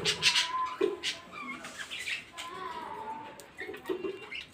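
Pet budgerigars chirping and chattering, with a couple of longer held notes, the second sliding slightly down, among short chirps.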